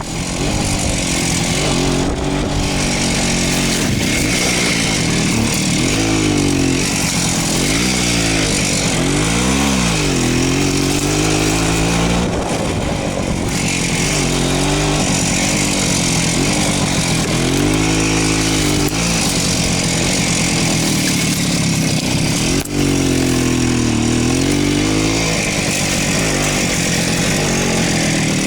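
Voskhod motorcycle's two-stroke single-cylinder engine running under way, its pitch rising and falling again and again with throttle and gear changes.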